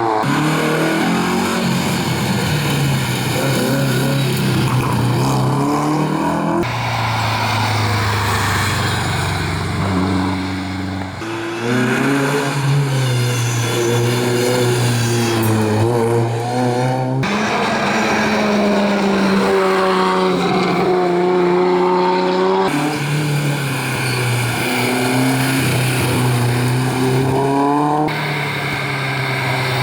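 Historic rally cars at full throttle, engines revving up through the gears with rising and falling pitch, heard in a string of short clips that cut hard from one car to the next about every five seconds.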